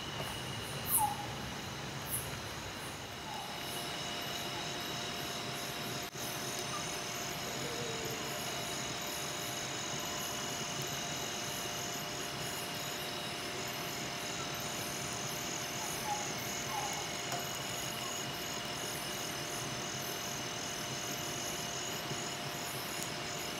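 Night chorus of calling insects: several steady, high-pitched trills held at different pitches, one of them pulsing rapidly. They run over a soft, even hiss of drizzle, with a few short chirps now and then.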